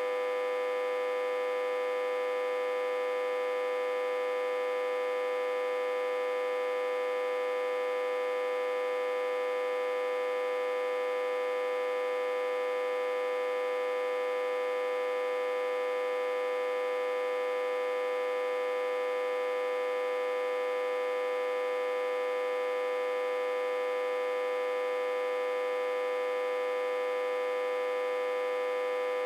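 Autotransformer humming steadily, fed about 60–80 V and reverse-connected to a step-down transformer. The hum is one strong, unchanging pitch with many overtones above it.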